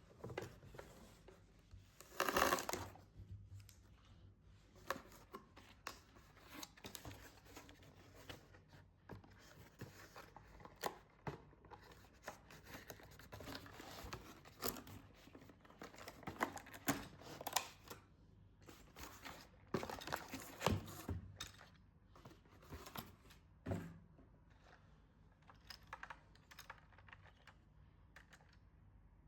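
Toy packaging being handled and torn open: irregular crinkling, tearing and small clicks and knocks, with a louder tearing rustle about two seconds in.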